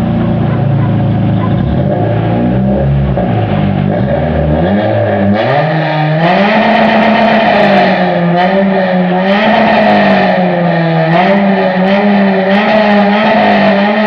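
Dacia Logan Cup race car's exhaust as the engine is revved: short rises and falls in pitch at first, then about five seconds in it climbs to high revs and is held there, wavering up and down.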